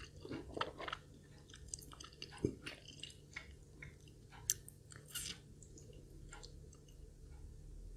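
Close-miked chewing of food, with irregular wet clicks and smacks from the mouth.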